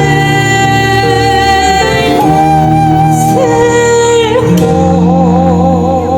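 Live fusion gugak band playing a slow song, with a woman singing long held notes; from about four and a half seconds in the melody line wavers with a wide vibrato.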